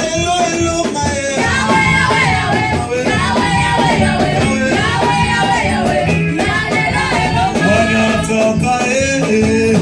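Church choir singing a worship song with an electric band accompanying, bass line and guitar under the voices.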